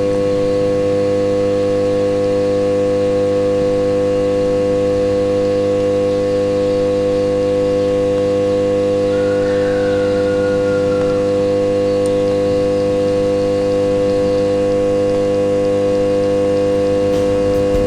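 Steady electrical hum of several even tones, unchanging throughout, as the D-240 diesel's electric flame preheater is switched on and its coil heats. A faint short squeak comes about halfway through.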